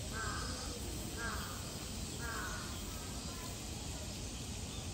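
A bird giving four harsh calls about a second apart, the last one fainter, over a steady low background hum.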